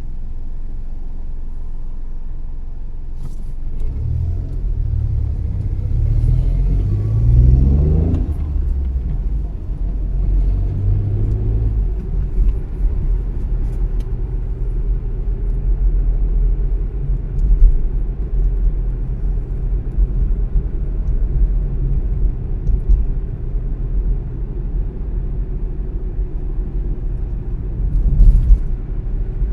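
Car engine and tyre rumble while driving. The engine pulls away and accelerates, rising in pitch from about four to eight seconds in, then settles into a steady low rumble at cruising speed.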